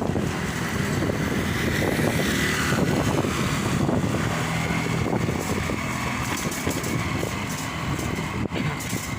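Steady vehicle engine and road noise while moving, with a faint high whine held throughout.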